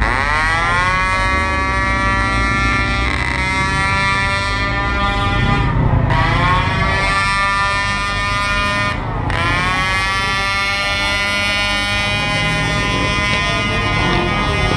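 Motorcycle engine revving up quickly and holding at high revs, with the pitch dropping briefly and climbing again twice.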